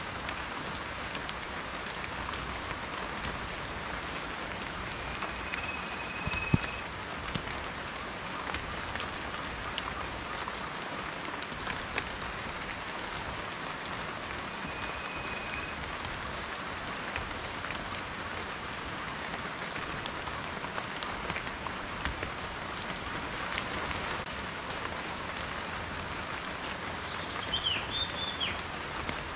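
Steady rain falling, with individual raindrops ticking sharply on a surface close by; one louder drop lands about six seconds in. A faint high whistling note sounds twice, and there is a short high chirp near the end.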